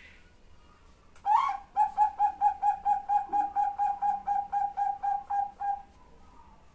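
Female Bangkok-strain zebra dove (perkutut) calling a male: a sharp rising first note, then a fast even run of short cooing notes, about five a second, for some four seconds.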